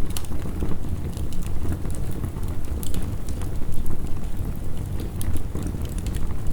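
Heavy rain with a crackling wood fire: a steady, deep rumbling wash with frequent quick sharp crackles and pops.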